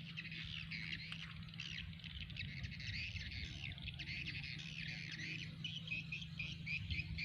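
Many small birds chirping and twittering at once, a dense, continuous chorus of short high calls. A steady low hum runs underneath.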